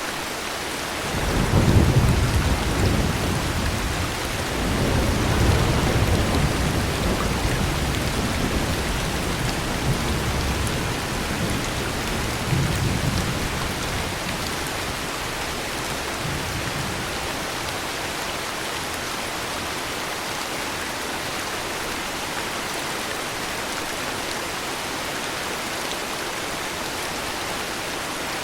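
Steady heavy rain with a long rolling rumble of thunder that begins about a second and a half in, swells again a few seconds later and dies away by about halfway, leaving the rain alone.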